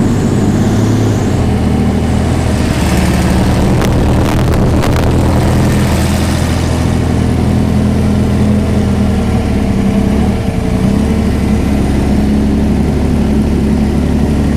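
1,000-horsepower V12 marine racing engine in a Shelby AC Cobra idling loudly and steadily, with a brief dip in its note about ten seconds in.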